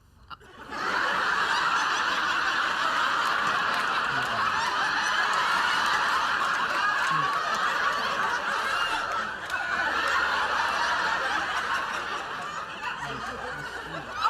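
Sitcom studio audience laughing, a long sustained wave of crowd laughter that breaks out about a second in and carries on, easing slightly now and then.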